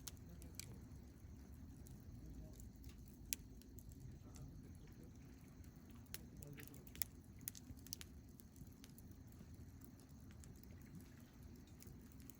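Wood campfire crackling faintly: scattered sharp pops, several close together about six to eight seconds in, over a low steady rumble.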